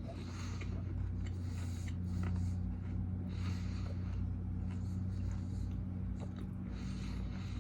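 A person chewing a chewy protein bar and breathing out through the nose in soft puffs every second or so, with small mouth clicks, over a steady low electrical hum.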